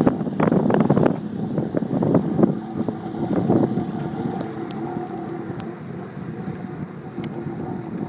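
Wind gusting on the microphone over the steady drone of a jet ski engine. The gusts are heaviest in the first couple of seconds, then ease, leaving the engine's hum.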